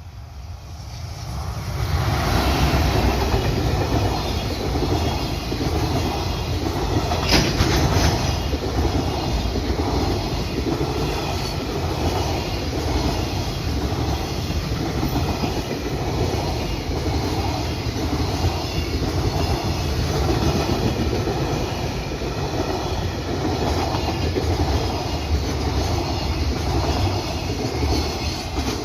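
Freight train passing close by, growing louder over the first two seconds, then a steady rolling rumble with wheels clacking over rail joints in an even rhythm. A single sharp clank comes about seven seconds in.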